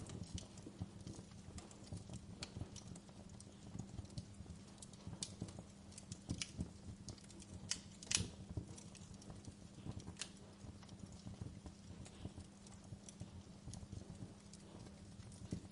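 Wood fire crackling in a fireplace: irregular snaps and pops, with one louder pop about halfway through, over a low steady rumble.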